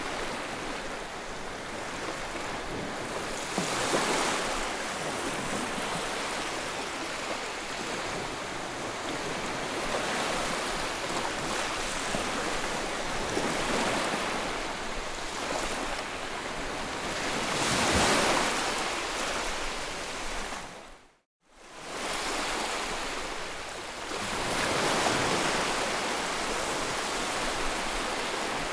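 Ocean waves breaking and washing in, a steady hiss of surf rising into louder swells every few seconds. About two-thirds of the way through, the sound fades out to a brief moment of silence and comes straight back.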